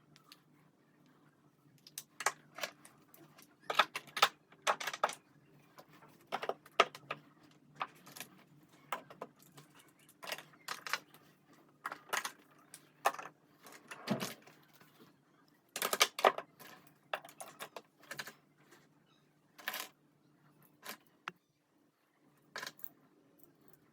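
Small hard objects clicking and tapping as they are handled and set down, at an irregular pace, over a faint steady hum.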